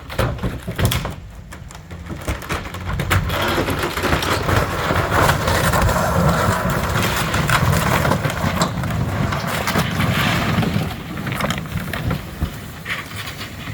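Old wooden shed being pulled down by a Chevrolet on a tow strap: wood cracking, splintering and crunching as the building gives way and is dragged, over the low rumble of the vehicle's engine. The crashing starts suddenly and carries on loud throughout.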